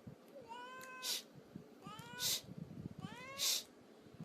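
Domestic cat meowing three times, about one call every second and a bit, each call followed by a short hiss-like noise.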